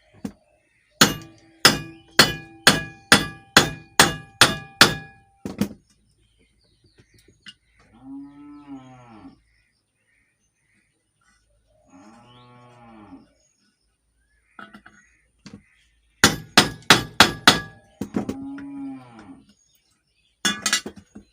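Hammer blows ringing on metal as a ceiling fan's ball bearing is knocked out of its seat without a puller: about nine strikes at roughly two a second, then a quicker run of about six. Between the runs, a cow moos three times in the background.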